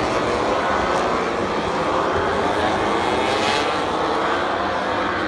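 Several MotoGP bikes' 1000 cc four-cylinder engines held at high revs together, their pitch climbing slowly.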